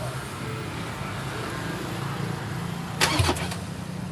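Ford Everest 2.2 diesel engine turning over on a start attempt, a steady low hum, with a brief louder burst about three seconds in. It is being tried for a no-start fault.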